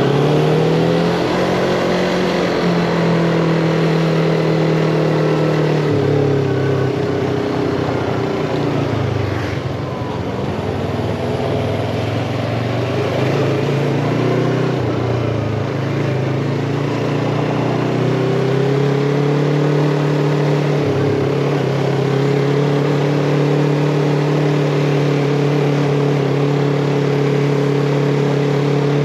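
Yamaha MT-25's parallel-twin engine running under way, its note rising and falling with throttle and gear changes, dipping and then climbing again about ten seconds in.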